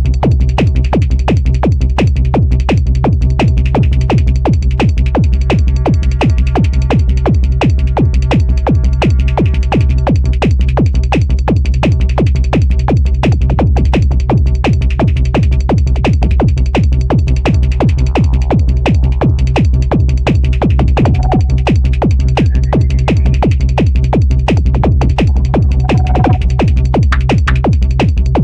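Electronic dance music played live on a Korg electribe 2 groovebox: a fast, steady drum-machine beat over a sustained bass and synth tones.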